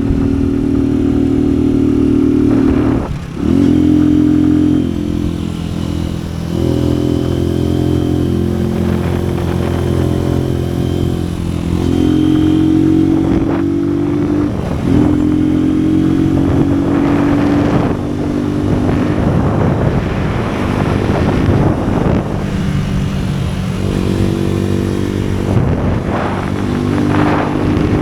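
Single-cylinder engine of an AKT NKD 125 motorcycle running under way, its pitch rising and falling several times, with a brief drop about three seconds in.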